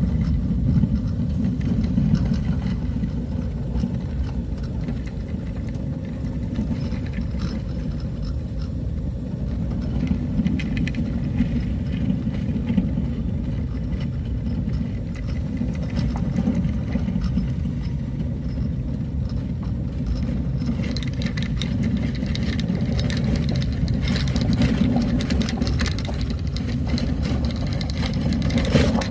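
Motor vehicle driving along a road: a steady low engine and road rumble, with rattling and clatter that grow busier about two-thirds of the way through.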